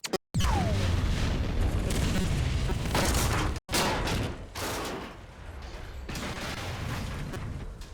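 Film sound effects of a train wreck: a dense, loud run of explosions, sharp cracks and crashing wreckage, with a short falling whine near the start. The sound cuts out abruptly twice, just after it begins and about three and a half seconds in, and is less intense after the second cut.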